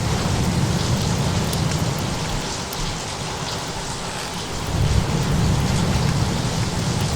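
Steady heavy rain hiss with low rolling thunder rumbles, the rumble swelling again about five seconds in.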